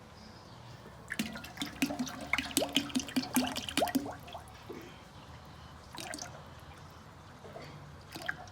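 Wet liquid sounds of dripping and squirting: a dense run of quick, irregular drips and splats for about three seconds, then a few more a couple of seconds later.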